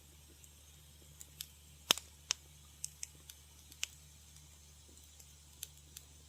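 Wood fire crackling in a fireplace: irregular sharp pops and snaps, the loudest pair about two seconds in, over a faint steady low hum.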